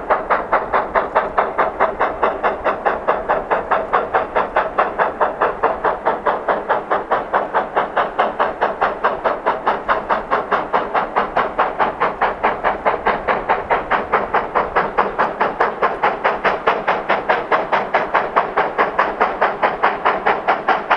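Narrow-gauge steam locomotive working steadily at speed, its exhaust beating fast and evenly at about four to five beats a second.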